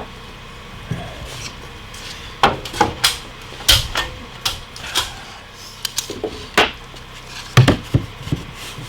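Irregular knocks and clacks of wooden pieces and hand tools being handled while measuring and marking trim. About a dozen sharp knocks fall unevenly from a couple of seconds in, and the loudest come near the end.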